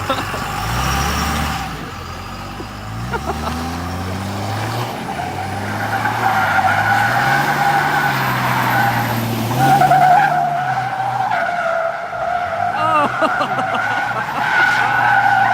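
Dodge 2500 pickup's Cummins turbo-diesel engine revving up and down repeatedly while its tires squeal in a sustained drift. The squeal grows louder from about six seconds in.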